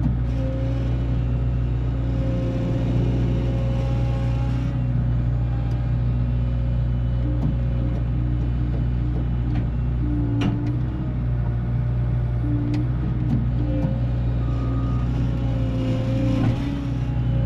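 Heavy farm machine engine running steadily while fence posts are pulled, a low, even hum with pitches above it rising and falling as the load changes. A sharp knock sounds about ten and a half seconds in.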